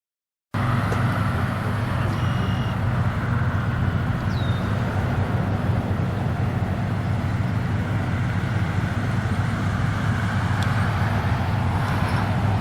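Steady outdoor rumble with a constant low hum underneath, cutting in abruptly about half a second in; a faint short high chirp a few seconds later.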